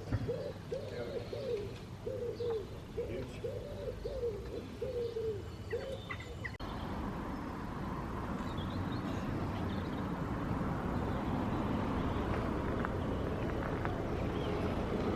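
A pigeon cooing, a series of soft hooting notes that rise and fall, for about the first six seconds. Then a sudden change to a steady rushing noise of wind and road.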